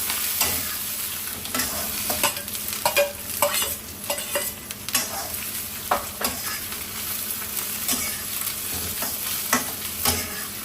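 Fresh shrimp sizzling in oil in a pan over low heat, with a spatula stirring and scraping them in irregular sharp clicks; the shrimp are being fried slowly to render out their oil.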